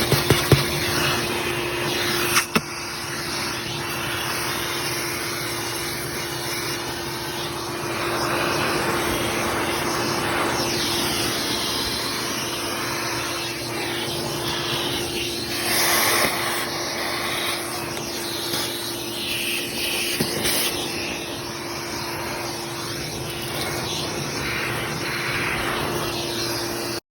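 Pressure washer running steadily, its hum under the hiss of the water spray on the car, the spray noise rising and falling as the wand moves. A few sharp knocks in the first couple of seconds.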